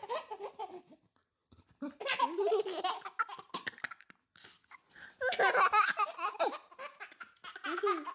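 A baby laughing in about four bursts of high-pitched giggles and squeals, with short pauses between.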